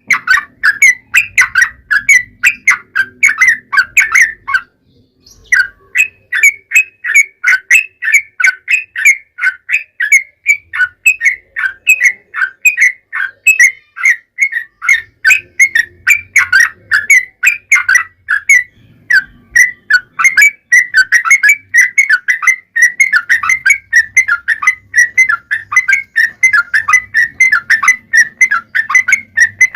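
Yellow-vented bulbul (trucukan) singing a long, fast run of short chattering notes, the rapid 'ropel' song used as a lure to make other bulbuls answer, with a brief pause about five seconds in.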